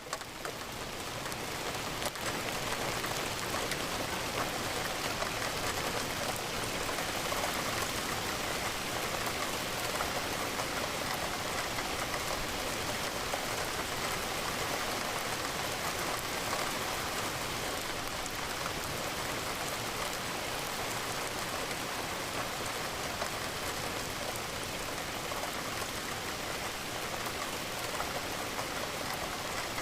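Steady, dense rainfall pattering against a window. It dips briefly at the very start and swells back within a couple of seconds.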